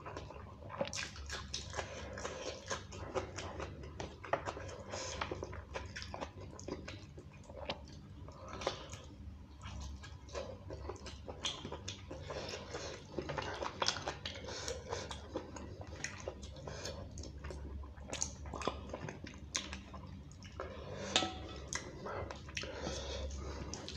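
Close-miked chewing and lip-smacking of beef curry and rice eaten by hand, a steady run of short wet smacks and clicks, with fingers squishing and mixing the rice on a steel plate.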